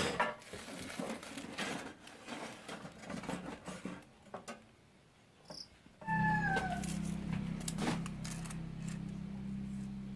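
Clicks and rattles of metal parts being handled, then about six seconds in the Wipro JDD 200 mini band saw's electric motor switches on and runs with a steady low hum, a brief falling squeal at the moment it starts.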